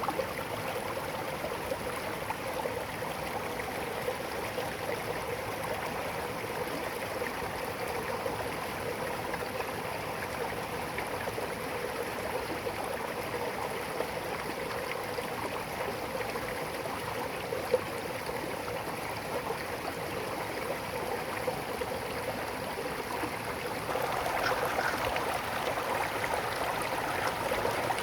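A stream of water running steadily, getting a little louder for the last few seconds.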